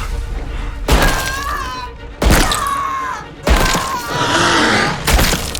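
Film struggle sound effects: four heavy thuds, each followed by a strained, falling cry or groan, over a low rumbling music score.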